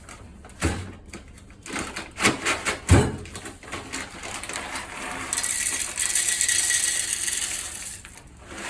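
Hard plastic parts of a coffee grinder's bean hopper clicking and knocking as they are handled and fitted. This is followed by about three seconds of steady hissing rattle.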